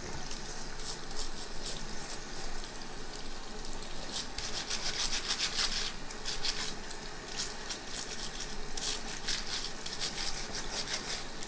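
Scrubbing the mineral-caked filter cartridge of a Crystal Quest inline shower filter: runs of quick scratchy rubbing strokes over a steady hiss, the strokes densest around four to six seconds in and again near the end.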